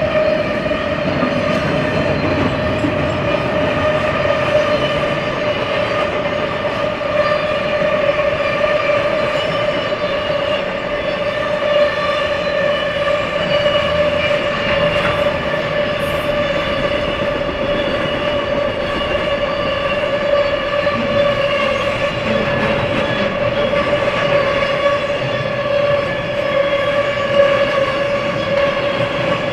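Double-stack intermodal container cars of a freight train rolling steadily past on the rails, a continuous rumble with a steady high-pitched whine over it.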